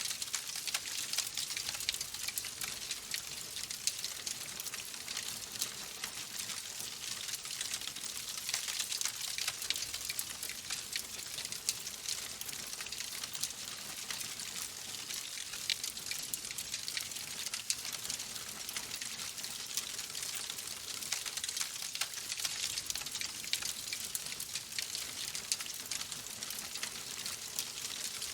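Log fire in a fireplace crackling steadily, a dense stream of small pops and snaps over a soft hiss.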